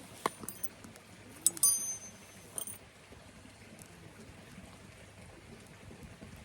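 Small metal objects clinking together a few times, each strike leaving a brief high ringing, the loudest about a second and a half in; then only faint background.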